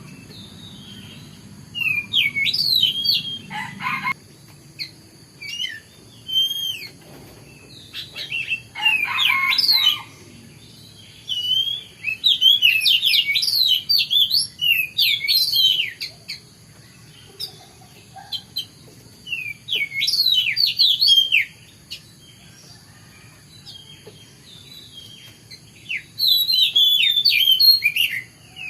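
Oriental magpie-robin (kacer) singing: bursts of fast, varied, rising and falling whistled notes. The phrases last one to four seconds, with pauses between them. Faint steady high-pitched tones run underneath.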